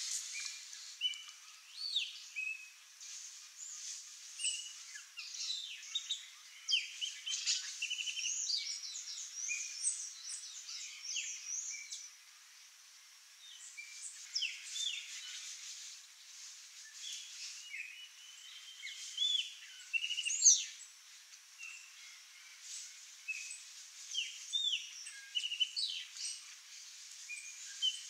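Several wild birds chirping and calling, many short, quick notes overlapping, with a brief lull a little before halfway.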